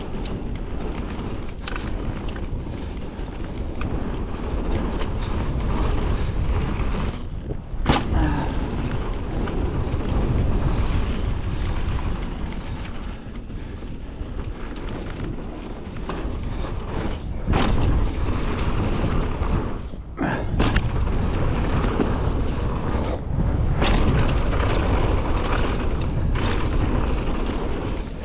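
Mountain bike descending a rough downhill trail: a steady rumble of wind on the microphone and rolling tyres, with several sharp knocks from the bike hitting bumps and landing jumps.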